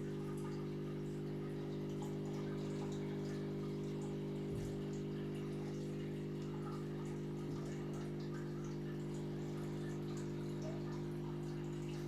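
Aquarium pump humming steadily, with faint water trickling and dripping.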